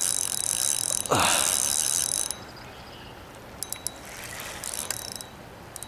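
Fishing reel's drag buzzing as a hooked carp pulls line off the spool, for about two seconds, with a falling swish about a second in; a few short clicks and a weaker burst of drag follow later.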